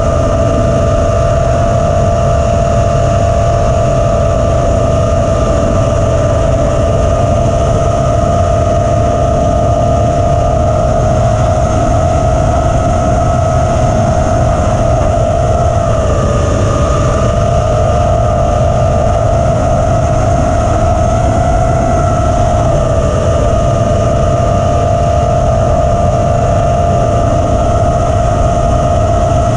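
Five-inch FPV quadcopter's four T-motor F40 III 2400kv brushless motors and propellers whining at a steady pitch in cruise, over a heavy low rumble. The pitch dips briefly about sixteen seconds in and again, less, about twenty-two seconds in.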